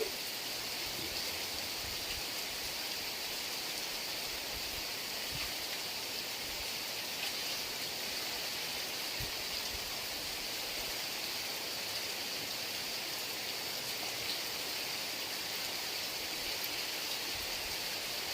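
Heavy rain falling steadily, an even hiss with no distinct drops or thunder.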